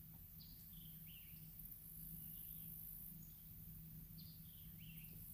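Faint outdoor ambience: small birds giving short chirps, roughly one every second, over a steady high hiss and a low hum.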